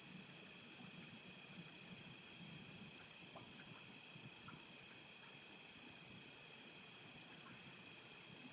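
Faint, steady chorus of chirping insects, several high pitches held continuously, with a soft low background rumble.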